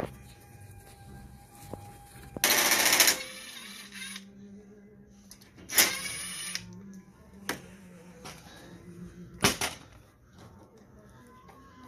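Pull-start recoil rope on a Powermore 179cc snowblower engine yanked twice, each pull a brief rapid ratcheting whir, and the engine does not fire. A sharp knock follows near the end.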